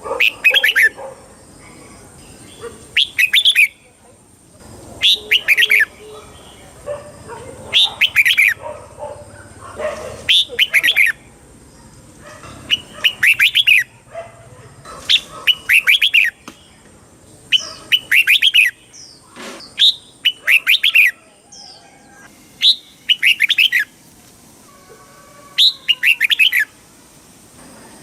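Red-whiskered bulbul singing: short, quick phrases of a few bright notes, repeated about every two and a half seconds.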